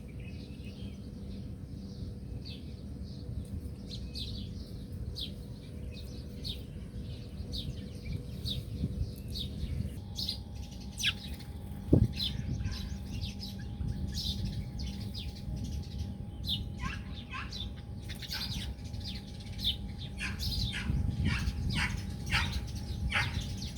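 Many small birds chirping in quick, short notes, calling over one another and more busily in the second half, with a single sharp knock about halfway through.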